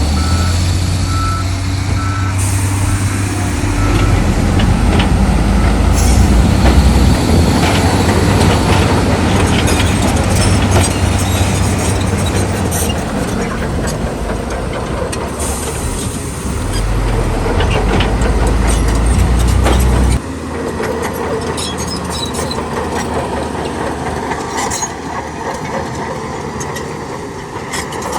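Heavy diesel earthmoving machinery running: a deep engine drone with knocks and clanks throughout. A short series of reversing beeps sounds in the first couple of seconds. The deep drone drops away abruptly about two-thirds of the way through, leaving lighter engine sound.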